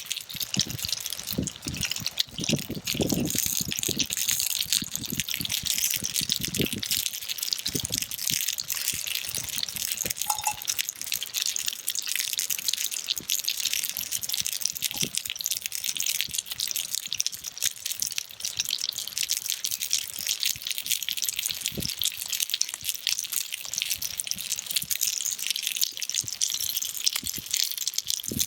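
Gyoza sizzling and spitting in a frying pan over a campfire: a steady crackling hiss, with a few low knocks from handling the pan in the first few seconds.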